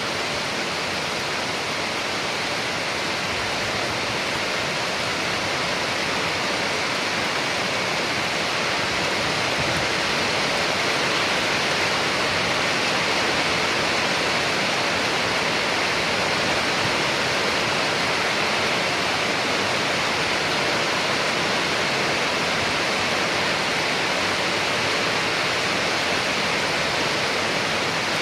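Steady rain, heard as a continuous even hiss with no separate drops or thunder standing out.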